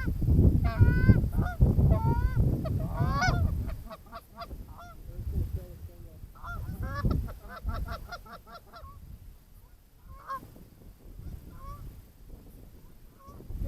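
Goose honks: loud honking calls over wind buffeting the microphone for the first few seconds, then a fainter quick run of repeated honks and clucks, with scattered single honks near the end.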